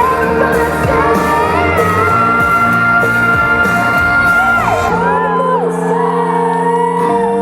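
Live pop song with female vocals: a singer holds one long high note for about three seconds, then it drops away. Around five seconds in the drums stop, leaving steady held chords.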